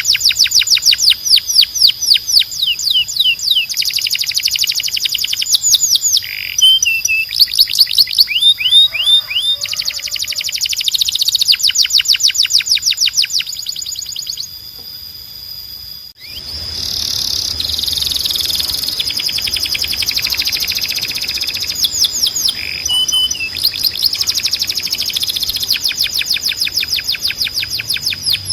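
Canary singing: fast trills of rapidly repeated high sweeping notes, changing to a new phrase every second or two. The song breaks off briefly just past the halfway point and then picks up again.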